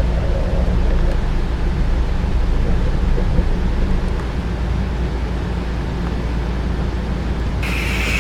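HO-scale slot cars and model train running on the layout: a steady electric-motor hum and rumble from the track. Music comes in near the end.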